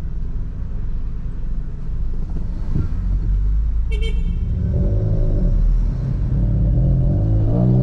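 Car engine idling with a low rumble, heard from inside the cabin, then pulling away: its pitch rises, drops once as it shifts gear, and rises again. A brief car horn toot sounds about four seconds in, as the light turns green.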